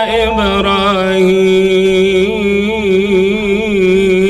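A man's voice singing an Arabic devotional chant (ibtihal), holding one long note ornamented with wavering turns in pitch.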